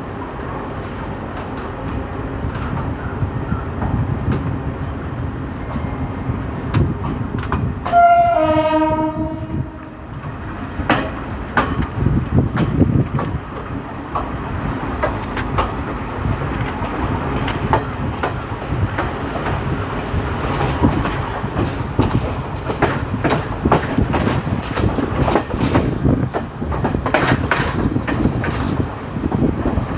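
Moving passenger train heard from on board: steady running noise with the wheels clicking over the rail joints. About eight seconds in, the train's horn sounds once for about a second and a half.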